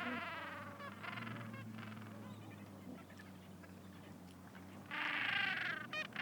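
Gentoo penguins calling: long, braying, pulsing calls, the loudest about five seconds in, followed by a few short quick notes. A faint steady low hum lies underneath.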